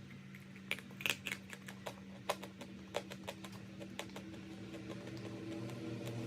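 Chalk crunching: irregular, crisp clicks and crackles, densest in the first three seconds and thinning out after, over a steady low hum.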